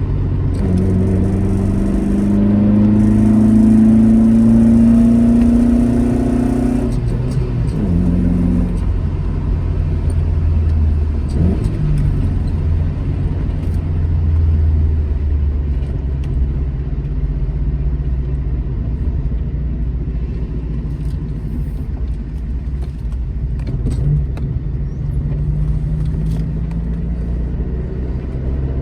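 Alfa Romeo GT Junior's twin-cam four-cylinder engine accelerating, its note climbing steadily for about six seconds, then dropping away sharply and running on at a steady, lower pitch, rising slightly again near the end.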